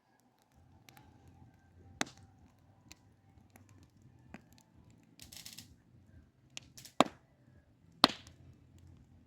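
Wood campfire crackling: a low steady burn with scattered ticks and three sharp loud pops, about two seconds in, near seven seconds and a second later, and a short hiss about halfway through.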